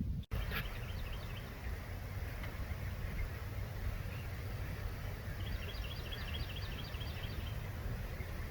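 Steady low outdoor background rumble. About five and a half seconds in, a small bird gives a rapid trill of about a dozen short high chirps.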